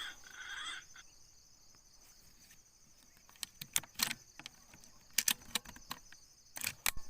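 Steady high-pitched insect chirring, with a handful of sharp clicks and rustles in the second half.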